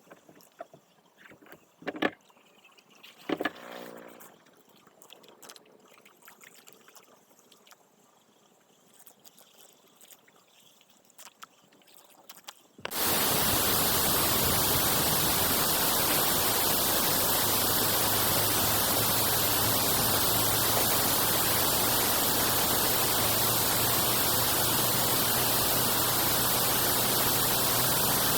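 Quiet stretch with a couple of sharp knocks, then, about halfway in, a sudden switch to a loud, steady rush of flowing water that runs on unchanged.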